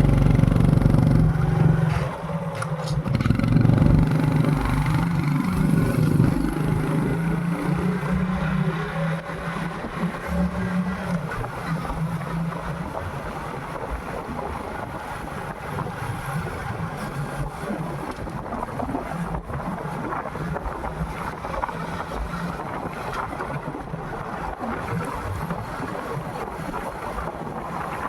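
Motorcycle engine pulling away and accelerating, its pitch stepping with gear changes. After about twelve seconds it gives way to a steady rush of wind and road noise as the bike rides on.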